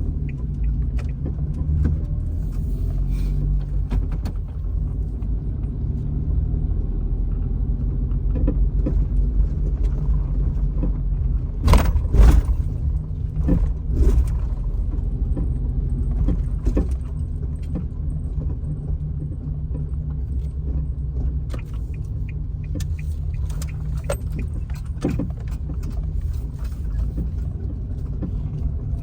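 Nissan Clipper kei van driving with a steady low road-and-engine rumble, over which come scattered clunks and rattles from the suspension, loudest in a cluster near the middle. The noise is an abnormal one that the owner suspects comes from a small lift-up and larger-diameter tyres.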